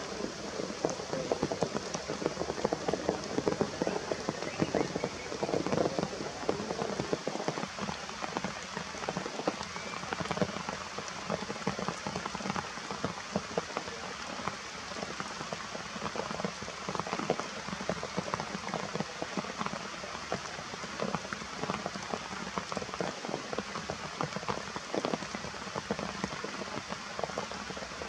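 Steady rain falling, a continuous hiss dense with the small ticks of drops striking surfaces.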